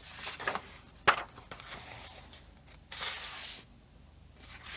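Paper pages of a coloring book being handled and turned: a sharp tap about a second in, then a short rustle of a page sliding over near the middle.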